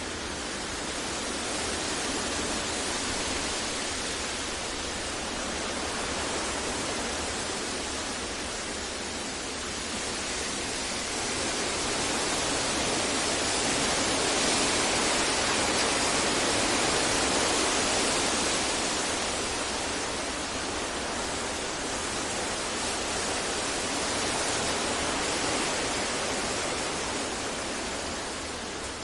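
Steady synthetic masking noise of the kind played for sleep and focus: an even hiss-like rush with no tones or events. It swells and eases slowly in loudness, loudest about halfway through.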